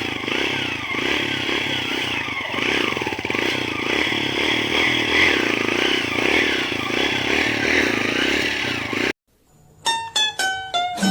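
A steady, loud, noisy din that cuts off abruptly about nine seconds in. After a brief silence, plucked-string music in a mandolin-like style starts with quick, separate notes.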